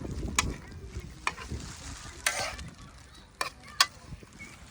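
Pompano grilling over a fire, sizzling, with a few sharp pops scattered through. Wind rumbles on the microphone underneath.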